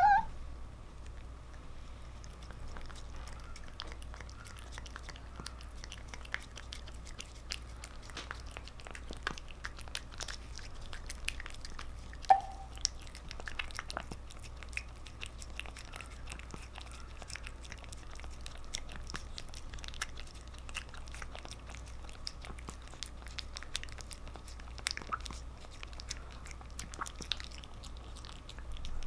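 A cat licking and chewing a paste treat, with many small wet smacking clicks. It gives a brief vocal cry at the very start and another about twelve seconds in.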